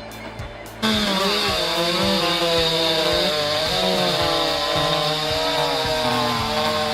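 Two-stroke chainsaw engine cutting in suddenly about a second in and running at high revs, its pitch wavering as it works under load.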